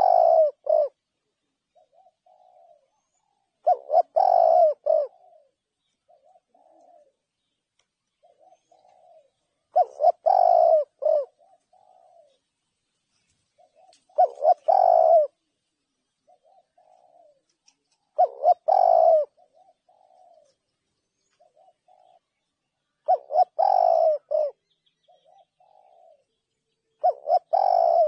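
Spotted dove cooing: a loud phrase of a few coos repeats about every four to five seconds, with softer coos in the gaps.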